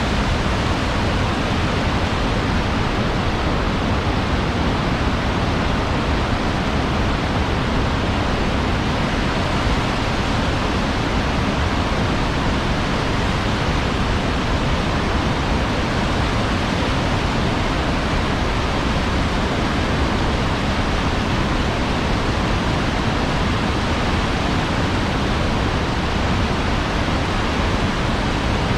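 Large waterfall thundering: a loud, steady roar of falling water with no change throughout.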